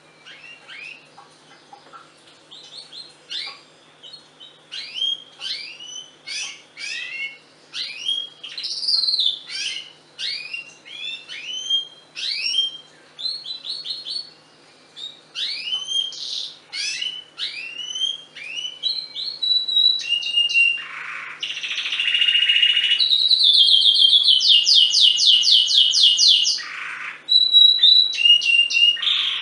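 Canary singing: a run of separate short chirps and falling whistles, then, about two-thirds of the way through, fast rolling trills that are the loudest part of the song.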